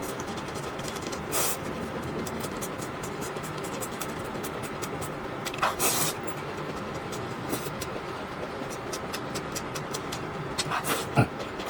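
Steady background hum with a few brief scrapes and clicks, the sharpest about six seconds in and near the end.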